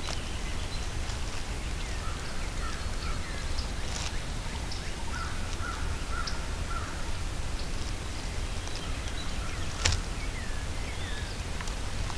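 Birds calling in spring woods: scattered short chirps and downward-gliding notes over a low, steady rumble, with one sharp click about ten seconds in.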